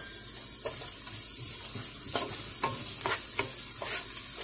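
Sliced onions with whole spices (cloves, cinnamon pieces, cumin) sizzling in hot oil in a non-stick pot, stirred with a wooden spoon: a steady frying hiss, with quick scrapes and taps of the spoon on the pan from about two seconds in. This is the stage where the whole spices are tempered in the oil with the browned onions.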